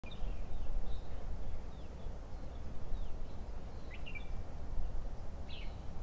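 Birds chirping in short, scattered high calls, several sliding down in pitch, over a low rumbling background.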